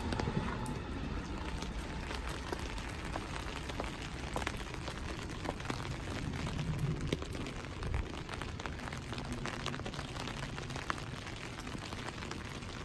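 Rain falling, with individual drops ticking sharply and irregularly close by over a steady hiss and a low rumble.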